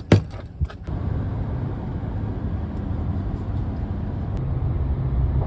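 A couple of sharp knocks, then from about a second in a pickup truck's steady low engine and road rumble as it drives on the road, slowly growing louder.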